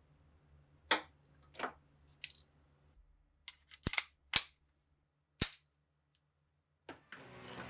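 Sharp metallic clicks and snaps from the parts of a Mauser K98 rifle being worked by hand, about eight separate ones spread irregularly over several seconds.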